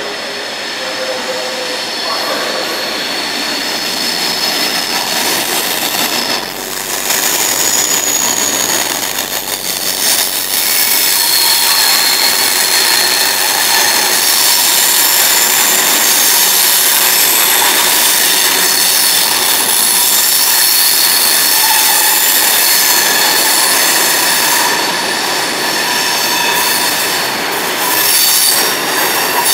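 Freight train hauled by a Class 60 diesel locomotive running through close by, its long rake of box wagons rolling past with a steady rumble of wheels on rail. Several high wheel-squeal tones ring out over the rumble.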